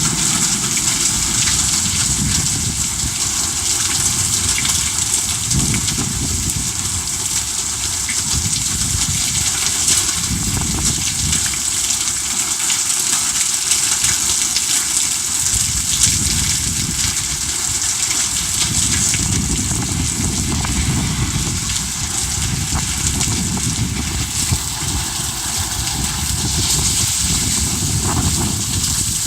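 Heavy rain pouring down steadily, a constant loud hiss of water.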